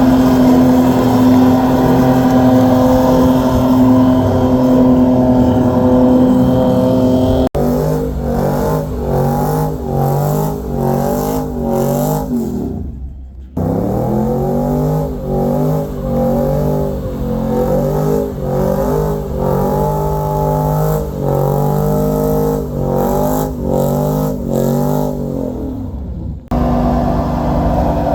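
A truck engine held at high revs, then, after a cut, revving in quick repeated surges about twice a second. Partway through, the revs drop away briefly before climbing again.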